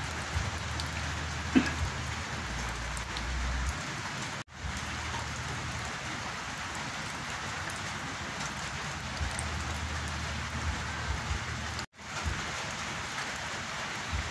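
Steady rain falling, an even hiss of many drops, with the sound cutting out for an instant twice, about four and twelve seconds in.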